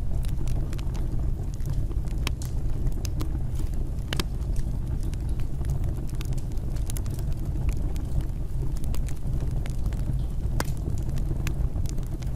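Fireplace fire burning: a steady low rumble of the flames with frequent sharp crackles and pops of burning wood scattered through.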